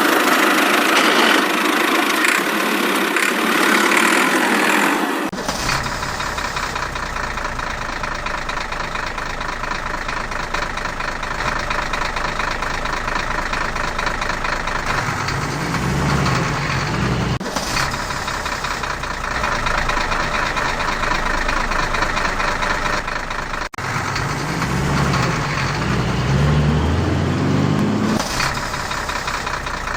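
Engine running steadily, with no speech; the sound changes abruptly about five seconds in and a few more times later, as if separate recordings were cut together.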